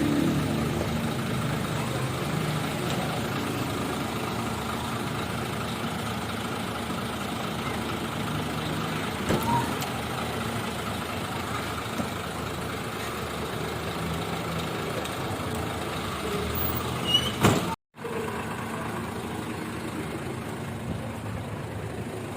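Isuzu 6HK1 truck diesel engine running steadily. Near the end there is a brief loud knock, and then the sound cuts out for a moment.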